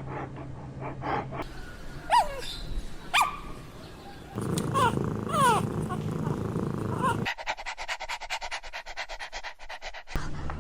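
Puppies making short, high squeals that slide down in pitch, several times. Near the end comes a fast, even run of short clicks.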